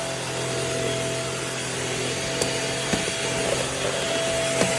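MBYULO cordless stick vacuum running steadily on a hardwood floor, a constant motor whine over rushing air, with a few sharp clicks in the second half.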